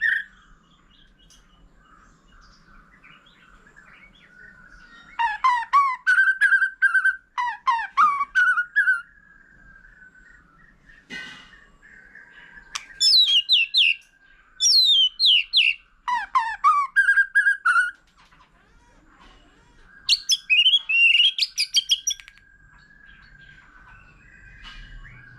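White-rumped shama singing: three bouts of rapid, varied whistled phrases, each a few seconds long, with pauses between them.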